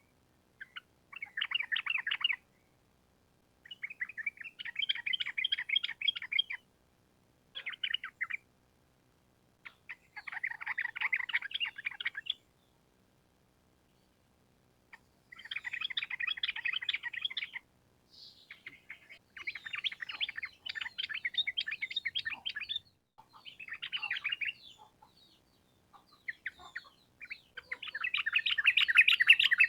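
Yellow-vented bulbul (trucukan) singing in repeated bursts of fast, chattering notes, each phrase one to three seconds long with short pauses between them. The last phrase, near the end, is the loudest.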